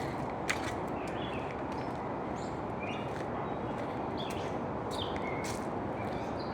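Birds chirping in short calls over a steady rushing background noise, with a few sharp clicks.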